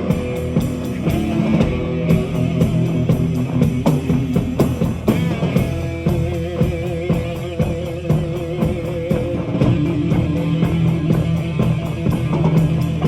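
Live metal band playing an instrumental passage: distorted electric guitars holding sustained notes over a drum kit.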